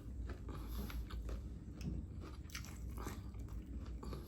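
A person chewing and crunching food close to the microphone, with a scatter of small, irregular crunches.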